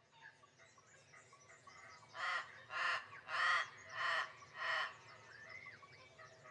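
A bird calling five times in a row, starting about two seconds in, the calls loud and about half a second apart, over faint chirping from smaller birds.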